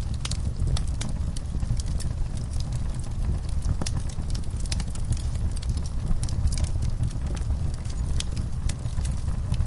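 Fireplace crackling, with scattered sharp pops over a steady low rumble, mixed with horses stirring and shifting their hooves in a stall.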